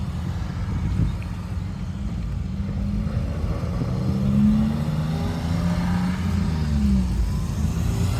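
A car engine running and pulling away, its pitch rising for a few seconds and then dropping near the end, with a short knock about a second in.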